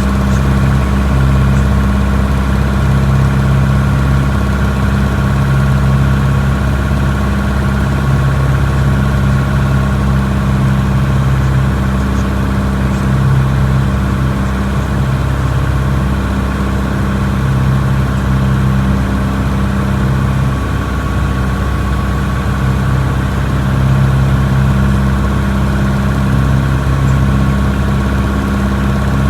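Piper PA-28's piston engine and propeller running steadily, a loud constant drone whose low hum wavers slowly every second or two.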